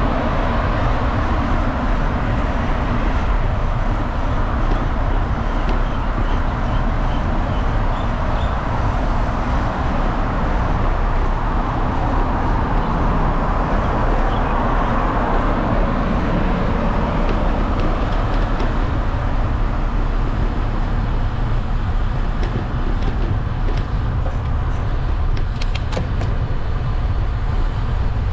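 Steady wind and road noise from riding a bicycle along a road, heaviest in the low rumble, with a few faint clicks near the end.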